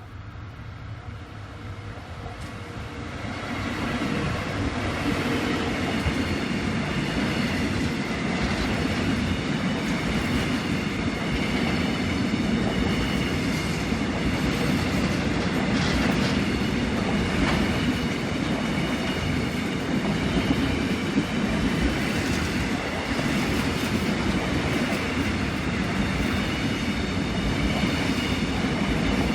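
Korail 7600-series diesel locomotive and its train running along the track. The sound grows louder over the first few seconds as it approaches, then holds as a steady rumble.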